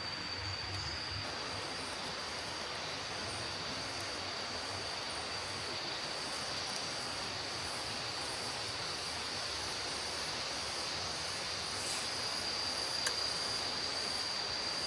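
Steady rushing of a river, with a continuous high-pitched insect trill held on one note over it. Near the end there is one brief click.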